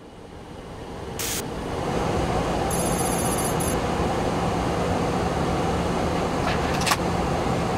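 Boeing 737-800 flight-deck noise on approach: a steady rush of airflow with engine hum, fading in over the first two seconds. A sharp click comes about a second in, a brief high-pitched electronic trill about three seconds in, and a few more clicks near the end.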